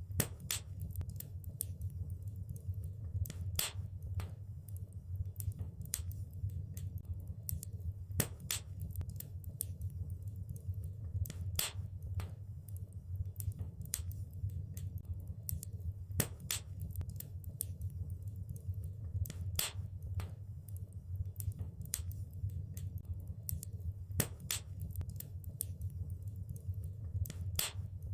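Wood fire in a fireplace crackling: frequent small irregular snaps, with a louder pop every few seconds, over a steady low rumble.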